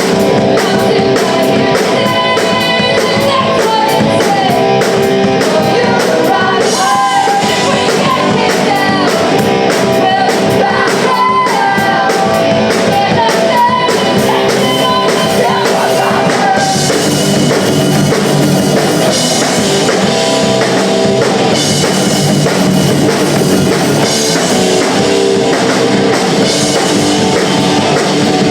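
Live punk rock band playing loud, with electric guitars and a drum kit. A voice sings over the first half, then the band plays on in a denser stretch.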